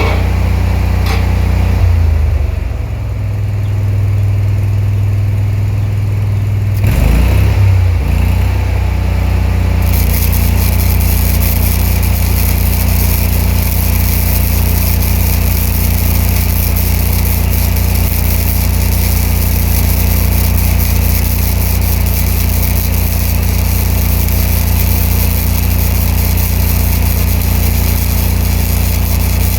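An engine-driven welding power source running steadily. It slows to a lower idle about two seconds in and speeds back up around seven seconds. From about ten seconds a steady hiss and crackle of the spool-gun welding arc runs over the engine sound.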